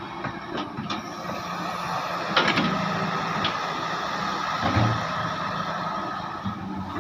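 Heavy excavator working: its diesel engine runs steadily, with a few sharp metallic clanks, the loudest about two and a half seconds in, and a dull thump about five seconds in.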